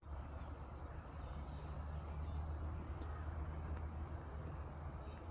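Small songbirds chirping in short runs of high, falling notes, twice, over a steady low rumble.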